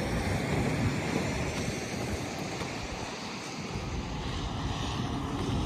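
Snowstorm wind rushing steadily over the microphone, with a low rumble underneath.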